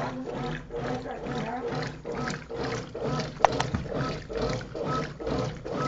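Brastemp Clean washing machine agitating: the agitator swishes water and clothes back and forth in a steady rhythm of about three strokes a second. One sharp click about three and a half seconds in.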